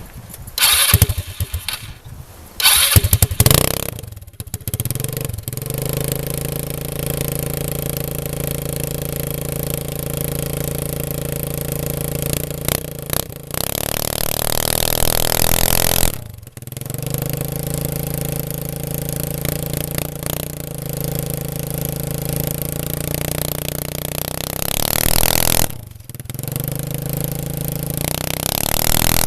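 150cc go-kart engine running through a straight pipe with no muffler. After a couple of loud bursts at the start it settles into a steady idle, and it is revved up three times, each rev rising and then dropping back sharply to idle.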